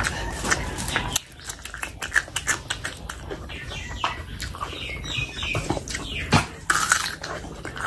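Close-miked wet chewing with many sharp mouth clicks and lip smacks, as spicy chicken curry and rice are eaten by hand. Near the end comes a louder crunching bite into a whole raw shallot.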